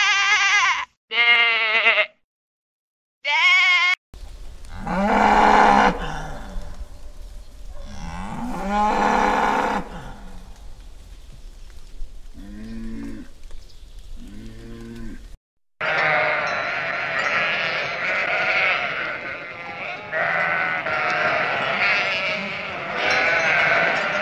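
Sheep bleating: three separate calls. Then, over a low hum, cattle lowing several times. From a little past the middle, a large flock of sheep bleating together, many overlapping voices.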